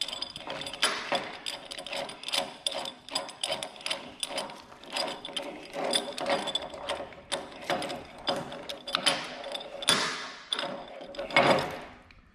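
Metal chain of an old chain pipe vise clinking and rattling as it is handled and fitted onto the vise: a busy run of small metal clicks with louder rattles now and then, the loudest near the end.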